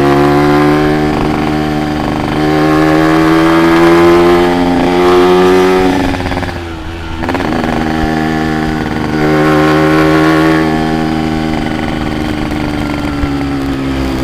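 Yamaha RX-King's single-cylinder two-stroke engine under way, its pitch climbing steadily as the bike accelerates, dropping sharply about six seconds in, climbing again, then holding steady.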